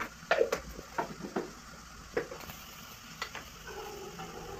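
Onions and tomatoes frying faintly in an aluminium kadai, with a few light, sharp clicks and knocks scattered through.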